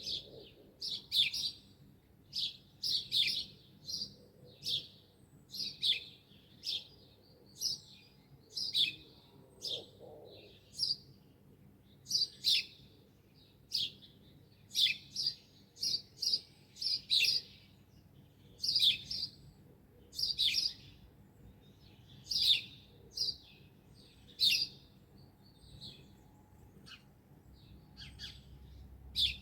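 Songbird chirping, with short, sharp chirps repeated one or two a second.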